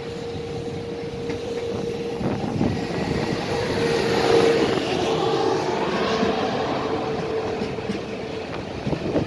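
Electric passenger train moving through the station, with a steady tone from its running gear and rail noise that swells to a peak about four seconds in and then eases off.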